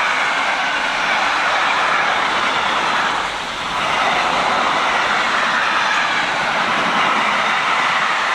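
A train passing close by on the line, its wheels running on the rails in a loud, steady rolling noise, with a brief dip a little under halfway through.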